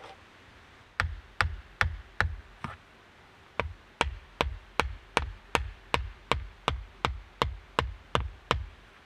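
Repeated hard knocks, each a sharp crack with a low thud, about two and a half a second: a run of five, a short pause, then a steady run of about fourteen more.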